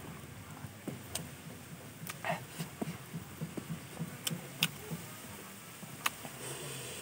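Close-miked chewing and mouth clicks as a person eats fried chicken by hand. Soft chews run about three a second through the middle, with a few sharp clicks among them.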